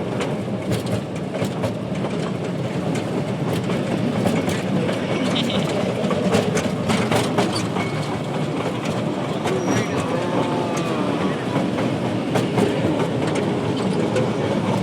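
Train running along the track: a steady rumble with frequent clicks and rattles of the wheels and carriage, and a voice heard briefly about ten seconds in.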